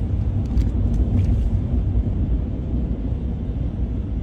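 Steady low rumble of a truck driving, heard from inside the cab: engine and tyre noise.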